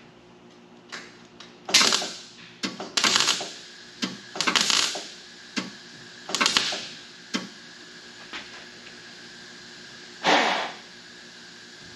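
Wire-feed MIG welder laying short plug welds through drilled holes to join a patch panel to the cab: a series of crackling bursts, about five main ones each under a second long, with brief ticks of arc strikes between them.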